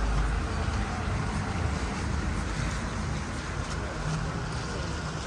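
Steady city street noise with road traffic; a vehicle's low rumble is loudest at the start and eases off slightly.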